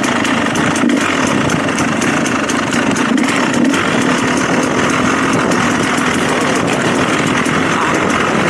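Dirt bike engine running steadily, with no clear start or stop.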